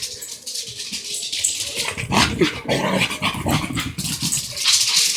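A puppy making short, irregular growls and whines.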